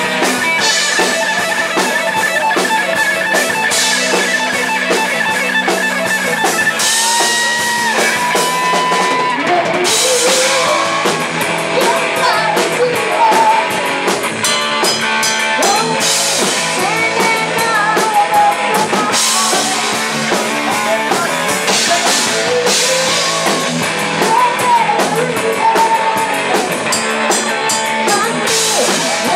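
Rock band playing live: guitar and drum kit keep a steady driving beat, with a melody line on top.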